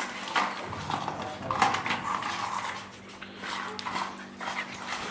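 Labrador dogs panting in irregular breaths, over a faint steady hum.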